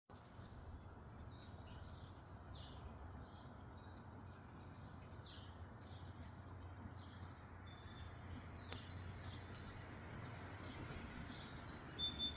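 Small birds chirping, short high calls about once a second, over a steady low outdoor rumble. A sharp click comes about two-thirds of the way through, and two brief, louder high chirps come near the end.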